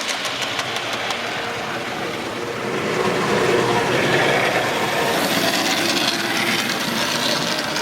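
OO gauge model locomotive hauling a heavy train round the layout: a steady, noisy running sound of the motor and wheels on the track, growing a little louder about three seconds in.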